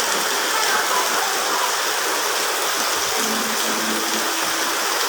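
Typhoon floodwater rushing steadily, one even, continuous wash of water noise; more water than the drains can carry away.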